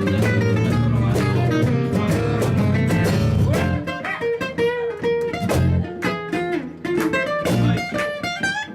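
Live band playing an instrumental break in a blues-style song, led by guitar. About four seconds in, the bass and fuller backing drop away, leaving sparser guitar lines.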